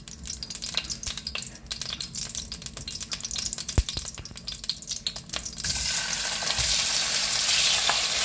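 Hot olive oil crackling and popping in a frying pan, with a single knock partway through; about two-thirds through, a loud steady sizzle starts as chicken fillet goes into the oil.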